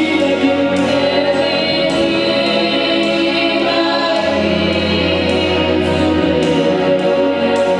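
Gospel worship music: a group of voices singing together over steady instrumental accompaniment.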